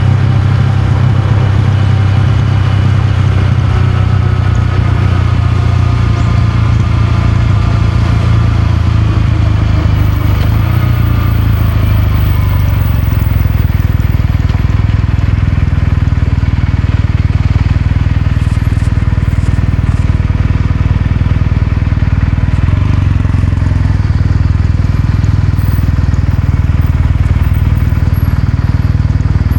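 Kawasaki Meguro K3's air-cooled 773 cc parallel-twin engine and exhaust running while the bike is ridden. The engine note falls gently over the first ten seconds or so, then holds steady.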